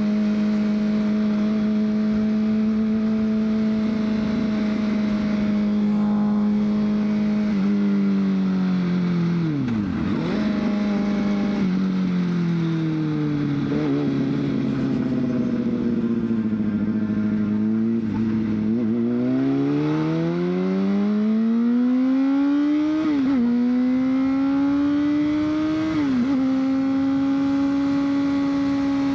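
A 2003 Honda CBR600RR's inline-four engine while riding: it holds steady revs, dips sharply about ten seconds in, then the revs fall slowly as the bike slows. The revs then climb again, with two quick upshifts near the end, before settling at a steady cruise.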